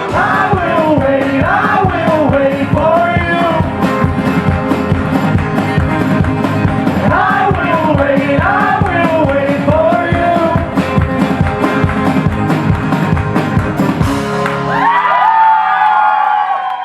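A pop-rock cover band playing, with a sung lead vocal over a steady drum beat and full band backing. Near the end the drums stop and the band holds a final chord under a sustained sung note.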